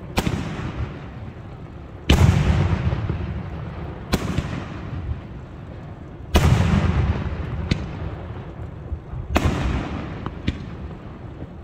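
Aerial firework shells bursting: five loud bangs about two seconds apart, each followed by a long rolling rumble, with two smaller sharp cracks between them.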